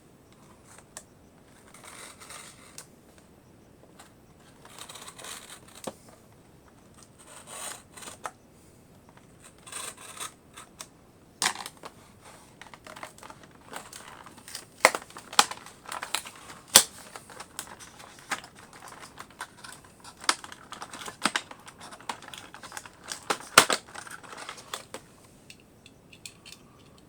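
Cardboard and plastic packaging being handled and opened: soft paper rustling and tearing in short spells, then a long run of sharp plastic clicks and crinkles as a 1:64 diecast model car is worked out of its blister pack.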